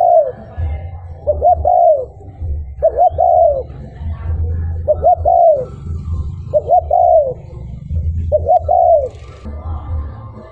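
Spotted dove (cu gáy) cooing its song over and over: six phrases, each two short notes followed by a longer arching coo, repeated about every second and a half to two seconds.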